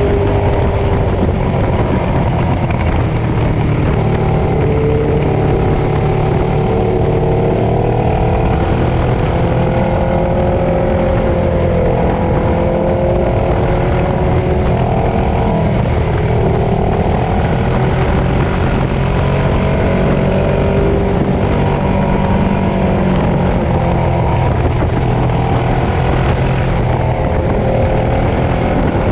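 Ducati Streetfighter 848's L-twin engine running under way on a ride, its pitch rising and falling every few seconds as the throttle is opened and closed, over a steady low rumble of wind and road noise.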